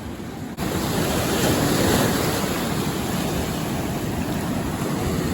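Ocean surf washing over shoreline rocks, with wind buffeting the microphone; the steady rush comes in abruptly about half a second in.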